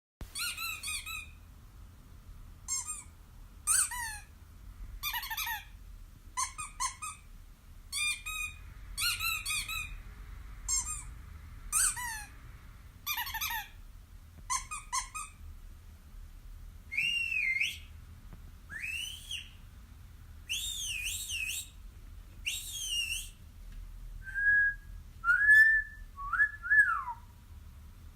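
A run of short, high-pitched chirps, followed by longer whistled glides that rise and fall in pitch and, near the end, a few wavering whistle-like tones.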